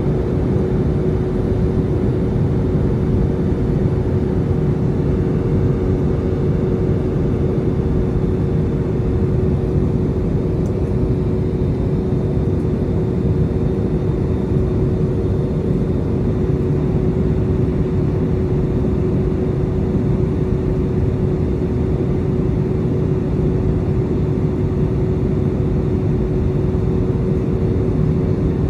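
Airbus A320 cabin noise in flight: a steady rush of airflow and engine noise with a constant humming tone running through it.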